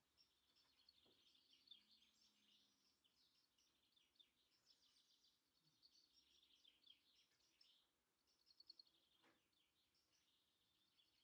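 Faint garden birdsong: songbirds chirping and twittering continuously, with rapid repeated notes.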